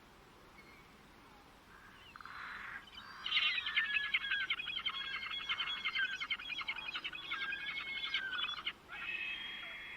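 A bird singing. Near-quiet background gives way about two seconds in to a long song of fast, rapidly repeated notes, and a second phrase of held whistled notes follows near the end.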